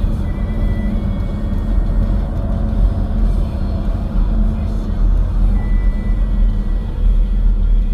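Car driving steadily at speed: a constant low rumble of engine and tyre road noise.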